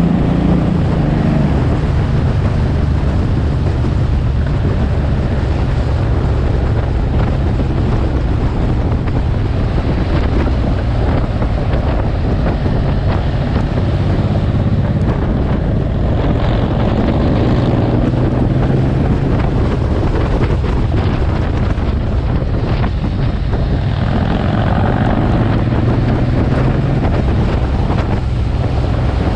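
Suzuki M109R's V-twin engine running as the motorcycle rides along, with heavy wind rushing over the microphone. The engine note rises briefly at the start and shifts in pitch now and then through the bends.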